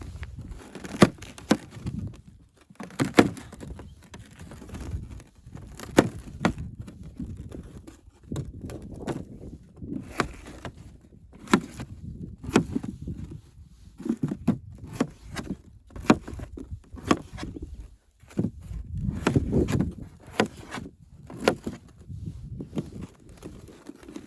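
Irregular knocks and clatter of objects being handled, with sharp hits about once or twice a second over dull thumping and rustling.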